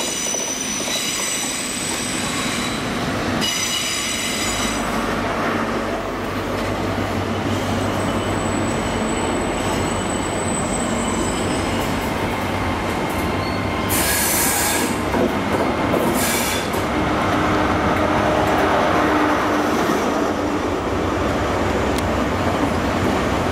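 Class 43 HST diesel train running into the platform with high-pitched wheel squeal in the first few seconds. From about four seconds in, a steady low diesel drone sits under the rumble of the wheels, and two short hissing bursts come about two thirds of the way through.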